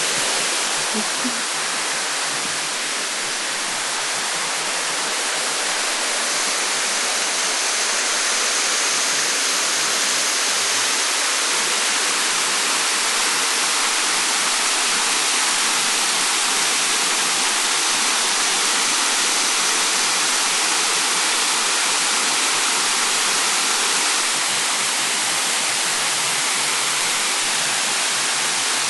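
Steady rushing of a waterfall and river heard from the stairs above them.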